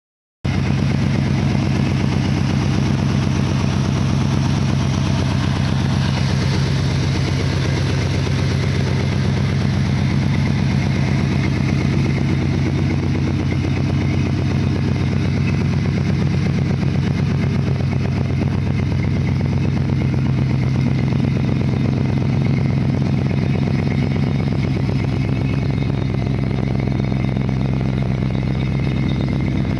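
1960 Ford F100 pickup's engine idling steadily.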